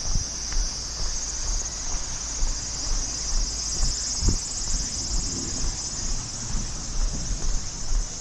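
A steady, high-pitched insect chorus, with the hiker's footsteps thudding on the trail about twice a second underneath.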